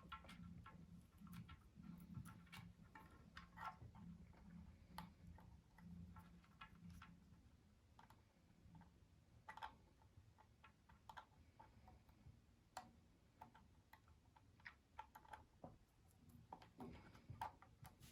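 Faint, irregular clicks and light taps, a few a second at most, over a low hum that fades out about eight seconds in.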